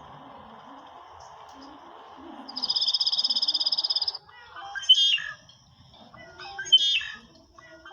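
Songbirds singing. About two and a half seconds in, one bird gives a fast, rapid trill lasting about a second and a half over a steady background buzz. Both stop about four seconds in, and a run of short chirps and whistled notes follows, loudest near five and seven seconds.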